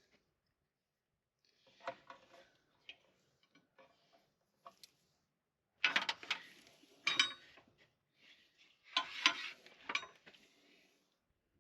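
Metal tools and parts clinking and clattering as they are handled: light clinks early on, then three louder bouts of clatter in the second half.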